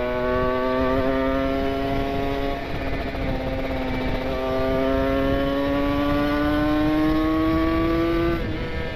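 Kawasaki Ninja 150 RR's single-cylinder two-stroke engine through an R9 aftermarket exhaust, running hard at high revs on the move, its note climbing slowly as the bike gains speed. The note eases briefly a few seconds in, climbs again, then drops off sharply near the end as the throttle is closed.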